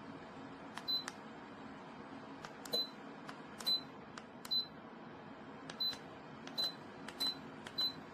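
Control-panel buttons of an electric space heater being pressed, each click answered by a short high beep, about seven times at uneven intervals over a faint steady hum.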